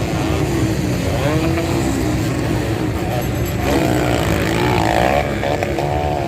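Motocross dirt bike engines revving, their pitch rising and falling over and over as the bikes race, over a steady low rumble.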